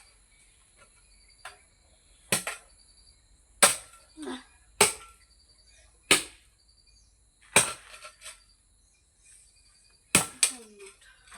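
A digging tool striking hard, stony soil: six sharp blows, each about a second or so apart, with a longer pause before the last.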